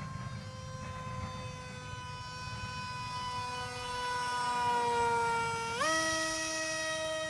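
A small motor running with a steady high-pitched whine whose pitch sags slowly, then jumps up abruptly about six seconds in, as if the throttle was opened.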